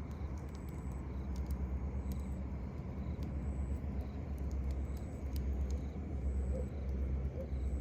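Campfire crackling, with scattered sharp pops, over a low steady rumble. A short high chirp repeats about once a second.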